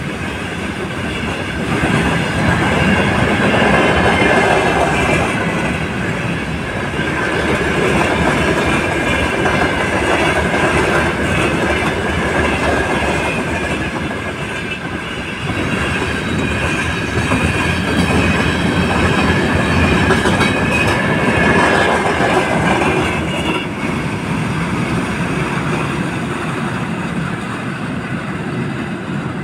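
A freight train's wagons rolling past, covered hoppers and then tank cars, with a steady rumble and wheel clatter. A high steady ringing squeal from the wheels runs through most of it and fades near the end.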